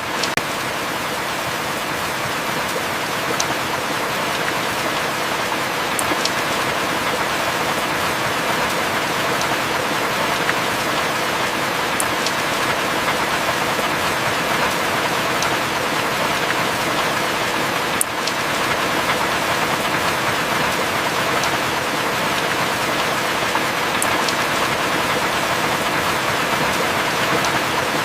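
Heavy rain falling steadily, an even hiss with a few sharp drop ticks scattered through it. No thunder.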